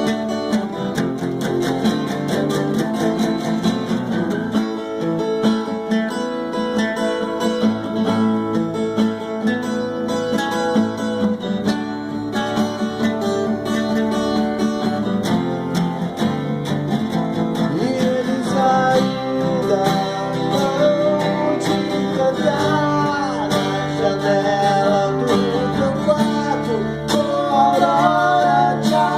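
Acoustic guitar playing an instrumental passage of a song, strummed and picked chords, with a higher melody line with bending notes coming in during the second half.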